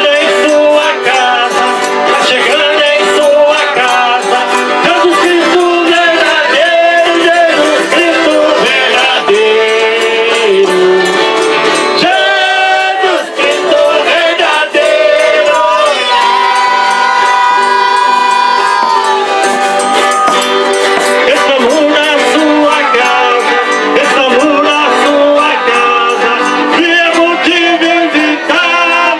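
Folia de Reis music: voices singing over an eight-bass button accordion, with jingling rattle percussion keeping a steady beat.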